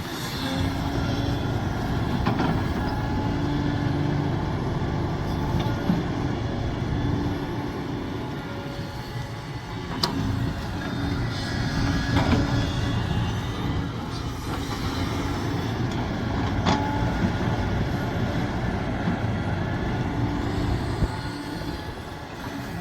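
Sumitomo SH370LHD-6 excavator working, its diesel engine running steadily, with a few sharp knocks spread through.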